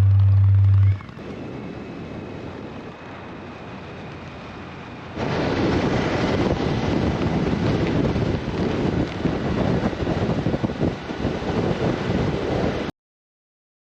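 Wind buffeting the microphone of a moving motorcycle, with road and engine noise beneath. It grows much louder about five seconds in and cuts off abruptly near the end.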